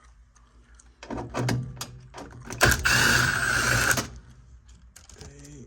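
Scattered clicks and knocks of tools and sheet metal, then a small power tool's motor runs steadily for about a second and a half near the middle, while furnace parts are being taken apart.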